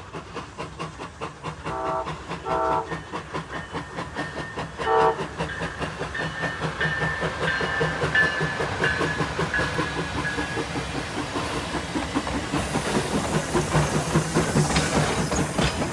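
Trains running on parallel tracks with steady rhythmic wheel clatter. Two short signal blasts sound about two seconds in and a third about three seconds later, over a long high tone that fades out about ten seconds in.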